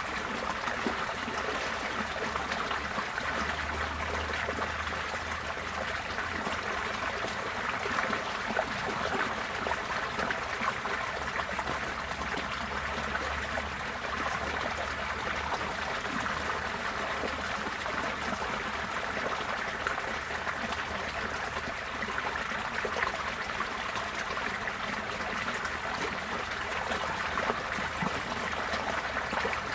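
Receding floodwater flowing and trickling steadily, an even rushing with fine splashing.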